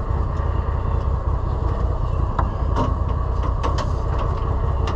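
Cub Cadet Big Country utility vehicle's engine idling with a steady low rumble, with a few light clicks and knocks of hose fittings being handled.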